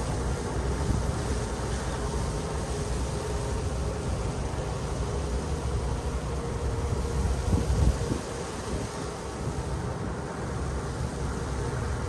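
City street noise in a snowstorm: a steady low rumble of traffic mixed with wind buffeting the microphone, under a faint steady hum. A louder low rumble swells briefly about seven and a half seconds in.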